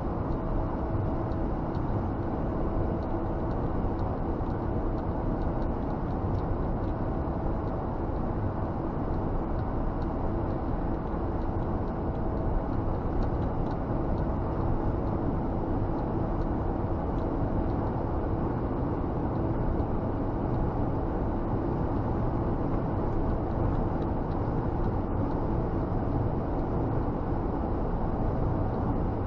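Scania G460 truck driving, its engine and road noise heard as a steady drone inside the cab, with a constant hum.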